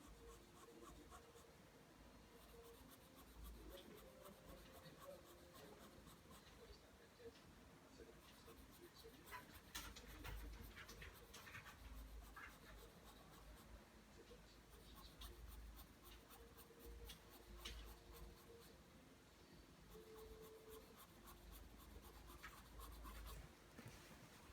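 Pencil scratching across paper in faint strokes as lines are drawn by hand.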